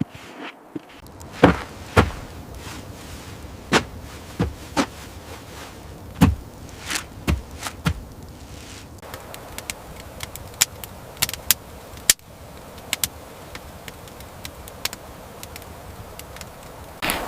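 Irregular knocks and thuds, a few heavier ones in the first few seconds, giving way to lighter, sharper clicks from about ten seconds in.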